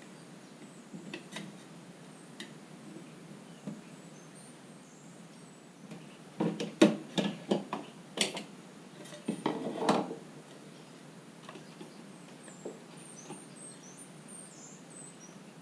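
A cluster of sharp metallic clinks and clatters, hand tools being handled against metal, from about six to ten seconds in.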